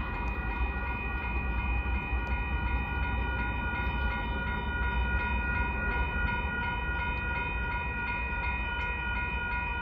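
Union Pacific train passing through a grade crossing: a steady low rumble with several steady high ringing tones over it, the crossing signal sounding.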